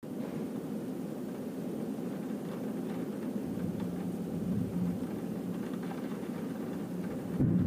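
A steady low rumbling noise that swells abruptly near the end.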